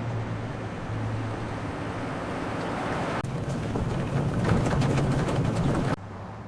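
A vehicle's engine running with a steady low hum under rushing wind-like noise. The noise grows louder and rougher partway through and drops suddenly near the end.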